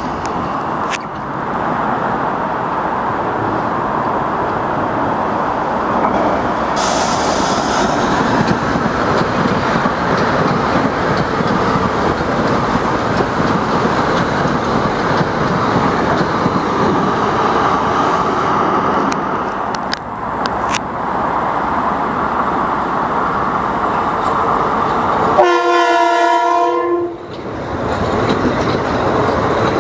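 Metro-North commuter train running through the station with a steady rumble of wheels on rail. Near the end a train horn sounds once for about a second and a half.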